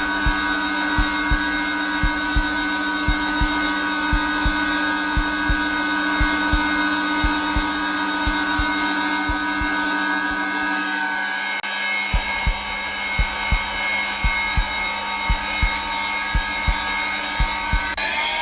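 Zelmer vacuum cleaner running steadily at its lowest setting, a constant motor whine, with regular heartbeat thumps beneath it. The hum changes slightly about eleven seconds in, where the heartbeat briefly pauses.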